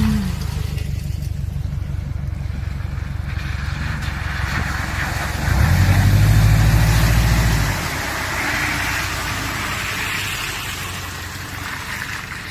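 Off-road vehicle engine running at low speed, with a louder, deeper surge of throttle lasting about two seconds a little past the middle.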